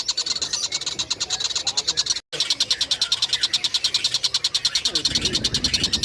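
Looped recording of a tengkek buto kingfisher calling: a fast, even rattle of high, sharp notes, about a dozen a second. It cuts out for a moment a little over two seconds in, and a lower, rougher sound comes in underneath near the end.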